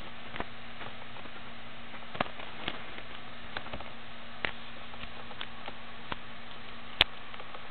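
Scattered light clicks and taps, irregularly spaced at roughly one or two a second, with one sharper click near the end, over a steady hiss and a faint low hum.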